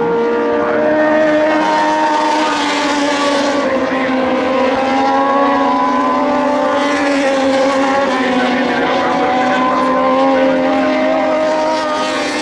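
Several Moto2 race bikes' Triumph 765 cc three-cylinder engines running hard at once, their overlapping pitches wavering slightly up and down.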